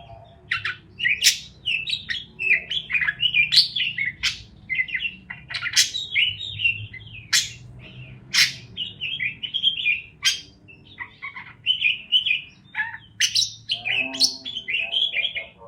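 Parakeets chirping nonstop: a busy run of short, high chirps and warbling notes, with a faint low hum underneath.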